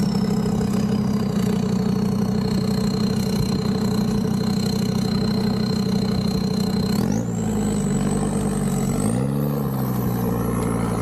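Land Rover Discovery 2's Td5 five-cylinder turbodiesel running at low revs while crawling along a rough track, heard from inside the cab. A thin high whine rides over the engine, and both rise in pitch twice near the end as the revs pick up.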